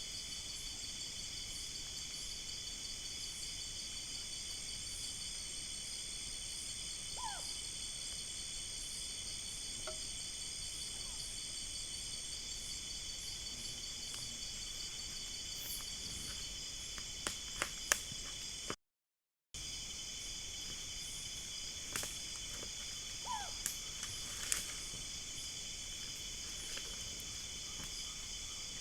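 Steady chorus of insects, several high-pitched buzzing and trilling layers at once. A few sharp clicks and, twice, a short falling call can be heard over it. The sound cuts out for under a second about two-thirds of the way through.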